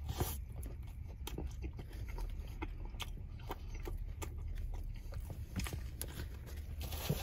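A bite into a McDonald's Junior Chicken sandwich, then chewing it: many small, irregular wet mouth clicks.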